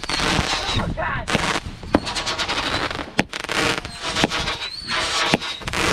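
Consumer fireworks going off: a continuous hissing spray broken by sharp pops every second or so, with short high whistling chirps.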